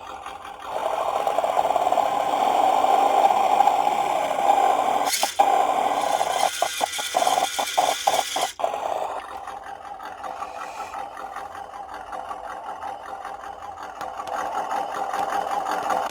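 Simulated truck engine sound from a WPL RES V3 RC sound kit playing through its small speaker, a steady running note that gets louder about a second in. Around the middle it breaks off several times in quick succession, the fault in which the kit's sound cuts out when the truck is throttled up.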